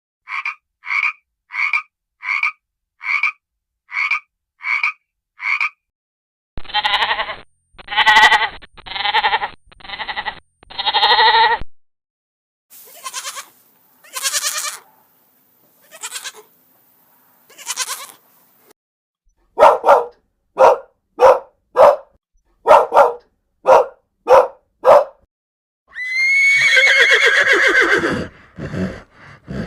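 Farm animal calls, one clip after another: a run of about nine short, evenly spaced calls, then five loud calls, then fainter scattered calls, then about ten quick sharp calls, and one long call falling in pitch near the end.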